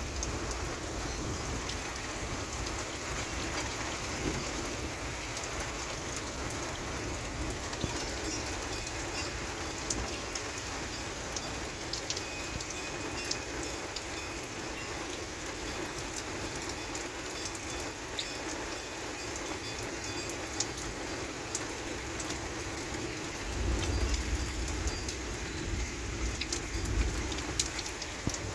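Heavy rain falling steadily during a thunderstorm, with sharp drop hits ticking throughout. A low rumble swells for a few seconds near the end.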